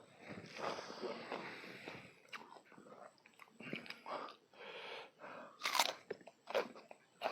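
Close-miked chewing and biting of food, irregular crunching and wet mouth noises, with the loudest crunchy bite a little before the end.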